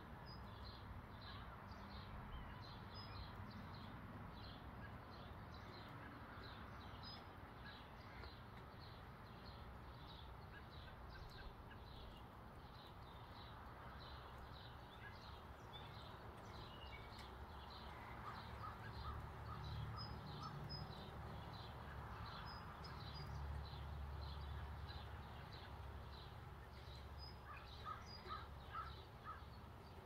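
Birds calling: a steady series of short, high chirps about two a second, with quick runs of lower calls about two-thirds of the way through and again near the end, over a faint low rumble.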